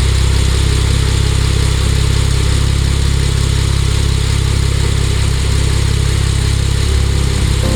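Porsche 911 Turbo S (991) twin-turbo flat-six engine running steadily, a low, even rumble.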